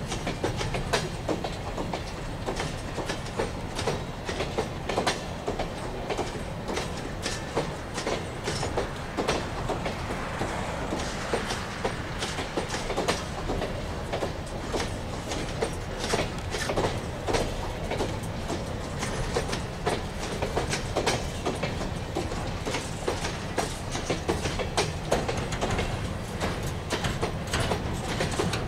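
Loaded container flatcars of a long diesel-hauled freight train rolling past on steel wheels: a steady low rumble with constant clicking and clacking as the wheels cross the rail joints.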